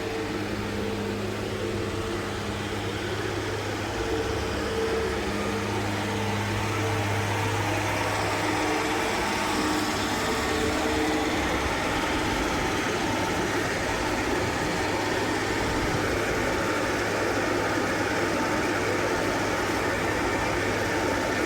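Sierra 6000 logger baler running: a steady mechanical hum with a low drone and higher tones that fade about seven seconds in, giving way to a slightly louder, even rushing noise.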